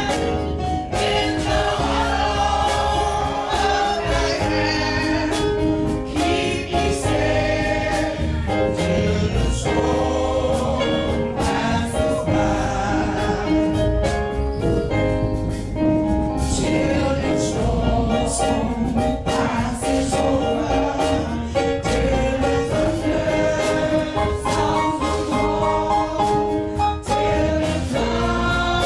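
Choir singing gospel music with a band: sung voices with drums and a steady bass.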